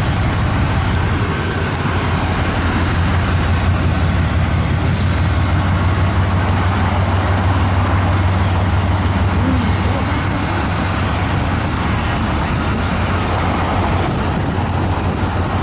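GE ET44AC diesel-electric locomotive working under heavy throttle as it pulls its train ahead: a loud, steady engine drone with a strong low hum.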